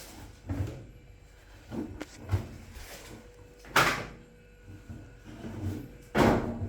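Knocks and bumps from a washing machine being handled, like its lid being opened and shut: a few small knocks, then a louder bang about four seconds in and another near the end.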